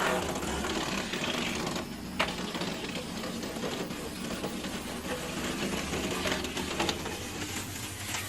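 Log-splitting machinery running with a steady mechanical rattle, and a sharp knock about two seconds in.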